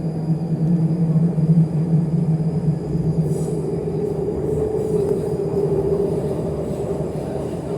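MTR East Rail Line R-train running, heard from inside the passenger car: a steady rumble of wheels and running gear with a low motor hum. Partway through, the hum gives way to a higher-pitched tone.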